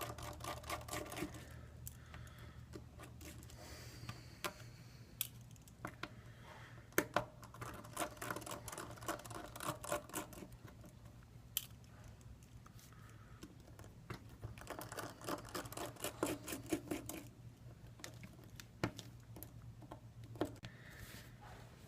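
Small screwdriver working screws out of a smartphone's frame: irregular light clicks and taps, some in quick runs, as the bit turns and tiny metal screws are set down in a tray.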